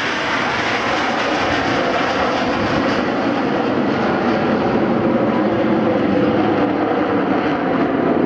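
Aermacchi MB-339 PAN jets' single Rolls-Royce Viper turbojet engines heard in flight. It is a steady jet roar that deepens over the first few seconds and grows slightly louder toward the end.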